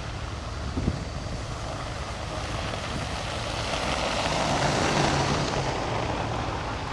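A vehicle driving past, its noise swelling to a peak about five seconds in and then fading away. There is a single short knock about a second in.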